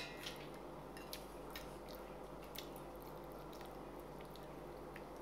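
Faint, scattered wet clicks and smacks of someone chewing noodle soup with the mouth, over a low steady hum.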